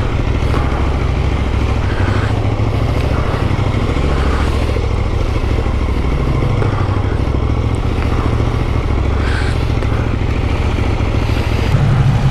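Motorcycle engine running with a steady low rumble, getting louder near the end.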